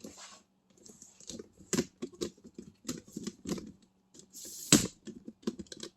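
Hand tools working on a car during engine removal: a run of sharp, irregularly spaced clicks and knocks, with a brief hiss and then the loudest clack a little before the end.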